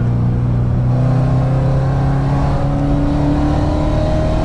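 Whipple-supercharged 6.2-litre V8 of a 2011 Camaro SS pulling hard in one gear, heard from inside the cabin. Its note rises slowly and steadily as the car accelerates past 100 mph.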